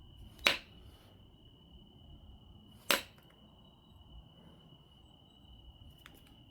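Two sharp cracks of flakes coming off an obsidian biface being knapped, about two and a half seconds apart, with a fainter click near the end. A cricket trills steadily under them.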